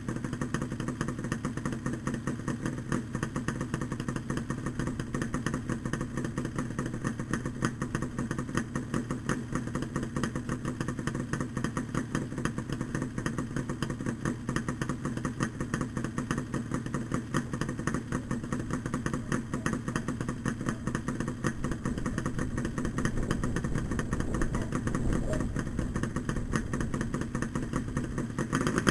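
Yamaha RD350LC two-stroke parallel-twin running steadily through Micron expansion chambers, with a rapid, even firing beat. It gets slightly louder in the last few seconds.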